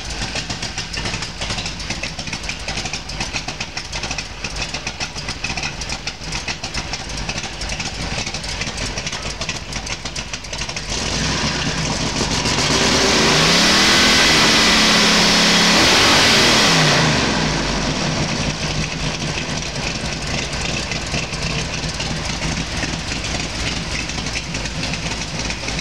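Ford 427 FE big-block stroked to 482 cubic inches, fitted with mufflers and a Mutha Thumpr hydraulic flat-tappet cam, idling steadily. About eleven seconds in it is revved up, held for several seconds, and then falls back to idle. The owner reckons the carburetor is running too rich, with jets that are too big.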